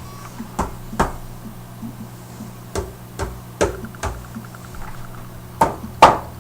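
Irregular knocks and thumps, about eight, the two loudest near the end, over a steady low hum.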